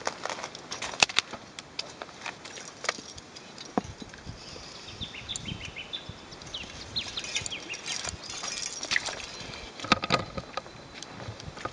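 A bird calling in a quick run of short chirps through the middle, over scattered sharp clicks and ticks.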